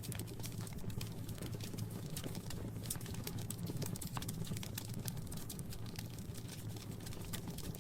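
Wood fire crackling in a fireplace: a dense, irregular run of small sharp pops and snaps over a steady low rumble.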